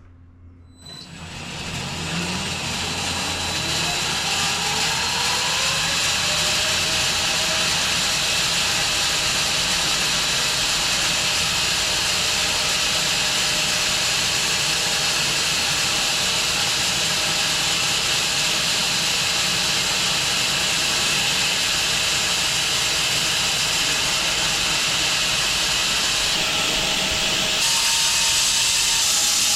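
Home-built wide bandsaw mill starting up about a second in, its motor's pitch rising over several seconds as it comes up to speed, then running steadily with a loud hiss; the sound shifts slightly near the end.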